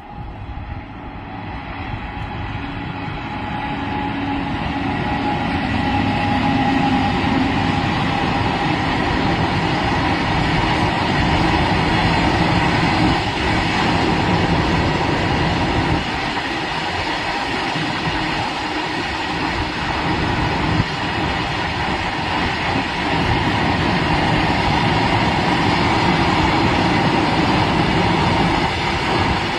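Goods train passing on the rails: it grows louder over the first few seconds as it approaches, then the wagons go by with a steady heavy rumble and rattle of wheels on track.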